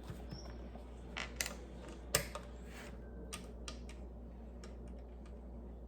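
Plastic Lego pieces being handled and pressed together: scattered small clicks and taps, the loudest about two seconds in.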